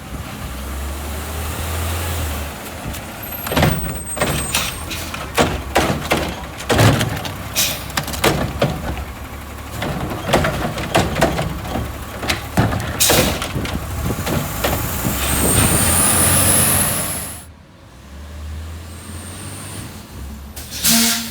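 Garbage truck working a pickup: the engine runs under a string of sharp bangs and clatters, then a long air-brake hiss about fifteen seconds in that cuts off suddenly.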